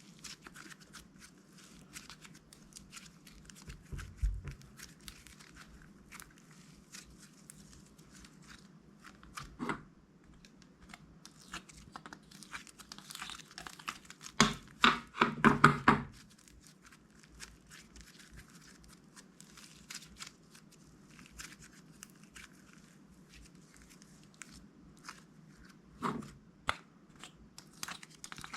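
Plastic bags crinkling and tearing open in a run of scattered crackles and clicks, with a louder flurry of crackling about halfway through.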